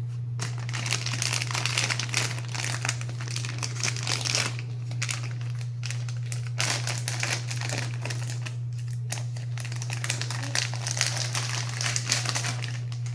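Packaging being crinkled and rustled by hand as a mystery-box toy is unwrapped, in irregular handfuls with a few short pauses. A steady low hum runs underneath.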